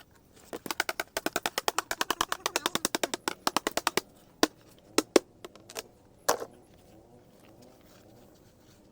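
Dried bottle gourd being beaten to free its seeds: a rapid run of sharp knocks for about three and a half seconds, then five or six single knocks.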